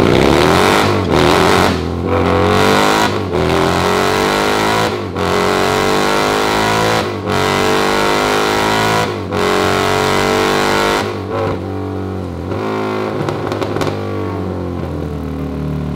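Harley-Davidson race bagger's V-twin engine running hard on a chassis dyno, pretty loud: the pitch climbs again and again, broken by short dips that sound like gear shifts through a pull. After about eleven seconds it drops back and settles lower.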